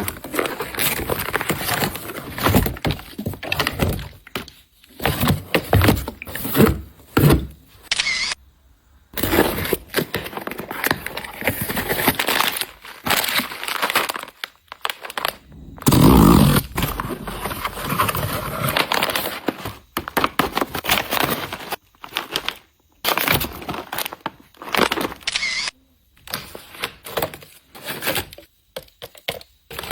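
Snack packaging and containers being handled: plastic wrappers crinkling, with a string of sharp clicks, knocks and clatters as items are opened and set down. A heavier knock with rustling comes about halfway through.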